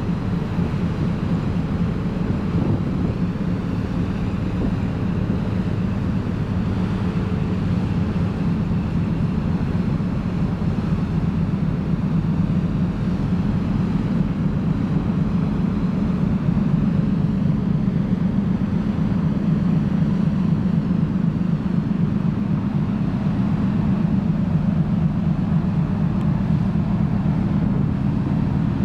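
Car ferry's engines running with a steady low rumble, heard from on board the ship.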